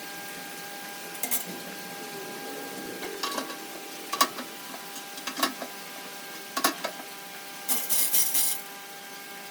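Several sharp metallic clinks and knocks in a woodturning shop over a steady electric hum, with a short burst of clattering scrape near the end.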